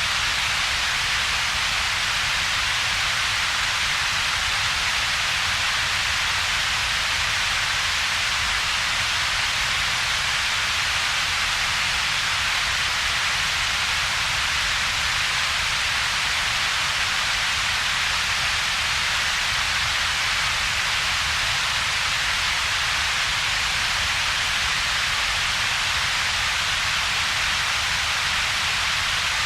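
Steady synthetic double-peaked noise: a strong, even hiss in the upper middle range over a weaker low rumble, with a hollow gap between the two. It holds constant, with no events or changes.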